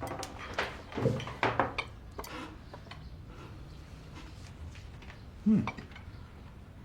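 Light clinks and knocks of dishes and tableware being set down at a meal table, several in the first couple of seconds, then a brief sound from a voice about five and a half seconds in.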